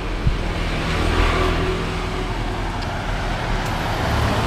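A motor vehicle engine running steadily close by, with road traffic noise that swells about a second in.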